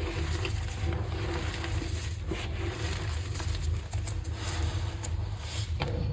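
Block of green gym chalk being crushed by hand, crumbling with scattered small crackles over a steady low hum.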